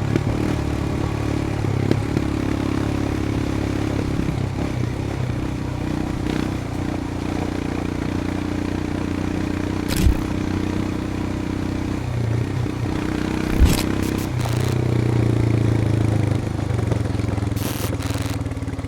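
Royal Enfield Himalayan's 411 cc single-cylinder engine running as the motorcycle rides along, its pitch shifting a couple of times. Two sharp knocks stand out, about ten and fourteen seconds in.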